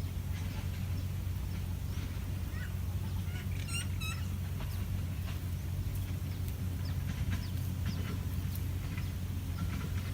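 Birds chirping, with a quick run of short hooked calls about four seconds in and scattered single chirps later, over a steady low rumble.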